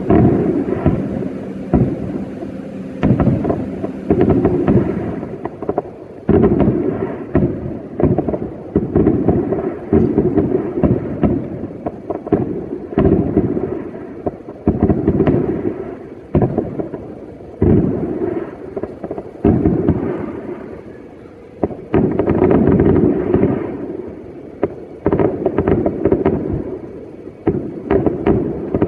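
New Year fireworks going off in a long run of dull booms, about one a second, each trailing off, with a thick cluster of overlapping bursts about two-thirds of the way in.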